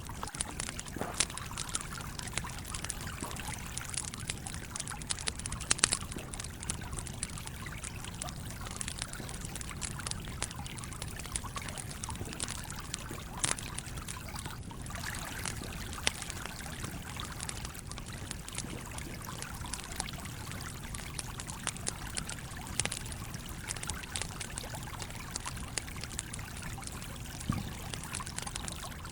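Campfire crackling with frequent sharp pops over the steady trickling flow of a small stream.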